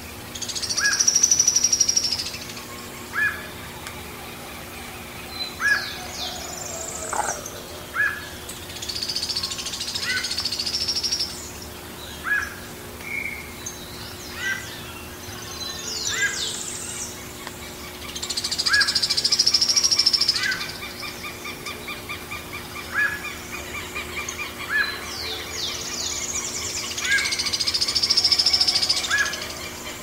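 Sharp-billed treehunter singing: a high, thin trill about two seconds long, repeated four times at roughly nine-second intervals. Between the trills come short, lower single notes about once a second, other brief chirps, and a steady low hum.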